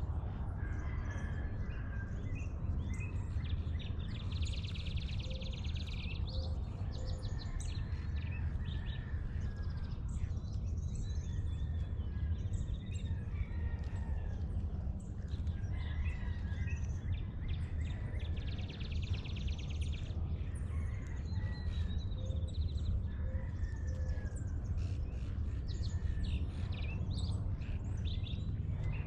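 Several birds calling and singing at dawn over a steady low rumble, with a rapid trill about five seconds in and again near twenty seconds.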